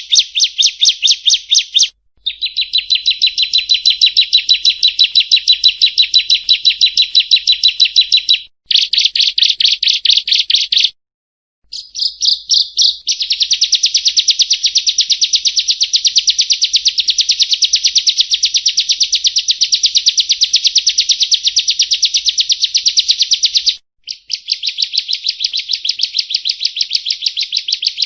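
Prinia (perenjak) song: long, rapid trills of evenly repeated high notes, each run lasting several seconds. Short breaks come about two seconds in, near the middle, and near the end.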